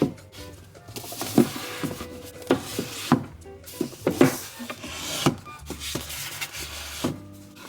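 Books being handled and shelved: a series of light knocks as they are set down and pushed against each other, with the rub of covers sliding into place between them. Soft background music runs underneath.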